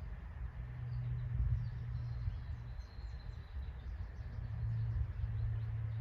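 Outdoor ambience: small birds chirping in many short high calls over a low, fluctuating rumble, with a faint thin high trill for a couple of seconds near the start.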